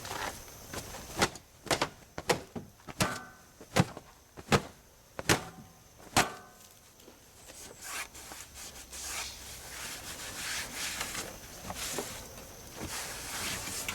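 Hard objects being handled: a run of sharp knocks and clinks, two of them ringing briefly like metal, followed by several seconds of rubbing and scraping.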